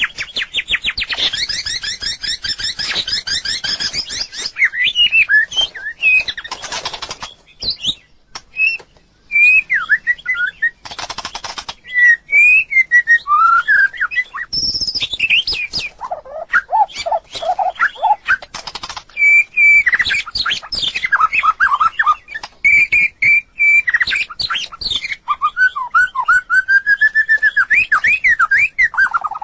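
White-rumped shama singing a long, varied song: a fast rattling trill, then clear whistled phrases that slide up and down, mixed with short buzzy runs and sharp clicks.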